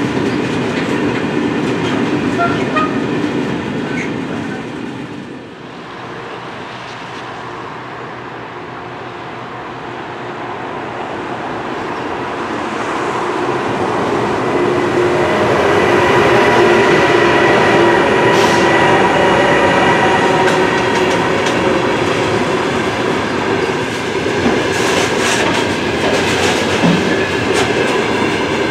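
A freight train rolling past on steel rails. After a short lull, a heavy freight train hauled by a pair of VR Sr3 electric locomotives approaches and its open wagons pass close, wheels rumbling and clicking over the rail joints with a steady whine.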